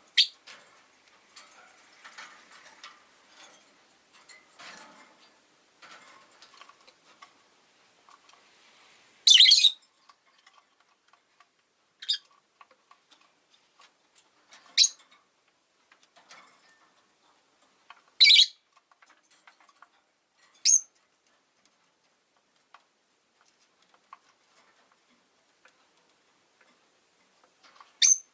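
Rosy-faced lovebirds giving short, shrill chirps every few seconds, about seven in all, with a longer, louder one about nine seconds in. Faint scattered ticking clicks fill the first few seconds.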